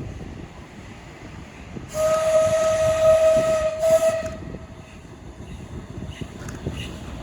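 A train whistle sounds once for about two seconds, a single steady note with an airy hiss, over the low rumble of a train.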